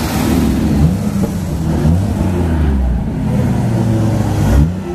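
Sports car engines passing at low speed and being revved, the deep engine note rising and falling several times, with a sharp rev near the end.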